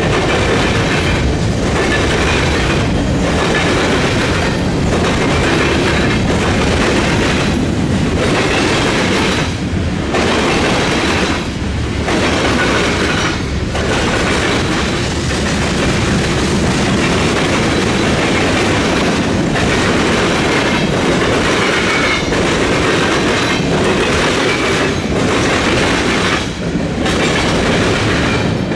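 Freight train cars rolling past at close range, their wheels clattering on the rails in a steady, continuous run. Brief dips in the noise come roughly every two seconds as the cars go by.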